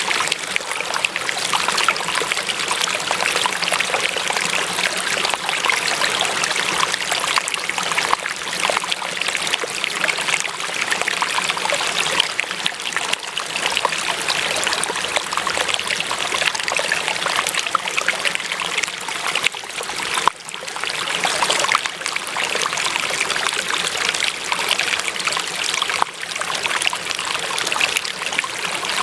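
Flowing stream water trickling and splashing in a steady rush, with a momentary drop in level about twenty seconds in.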